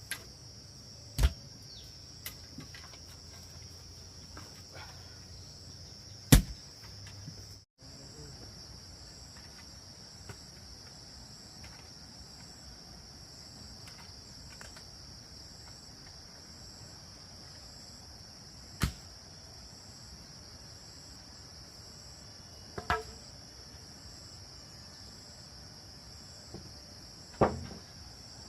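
Steady high-pitched chirring of crickets or other insects, broken by five sharp knocks at uneven intervals, the loudest about six seconds in.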